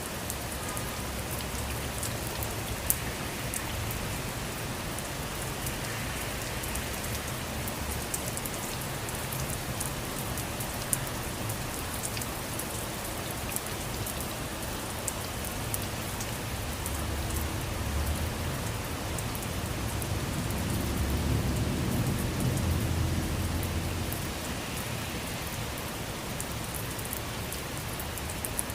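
Steady rain falling, with sharp ticks of single drops. A low rumble, likely distant thunder, swells and fades about two-thirds of the way through.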